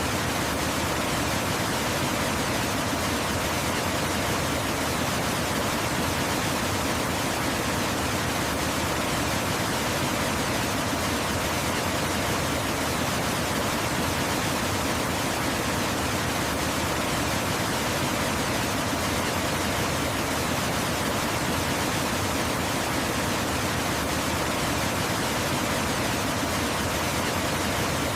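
Waterfall, a steady, unbroken rush of falling water with no changes or separate sounds.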